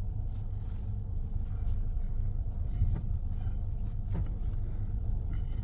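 Steady low rumble and hum of a car-wash tunnel, heard from inside a car's closed cabin as the car rides through, with a few faint clicks.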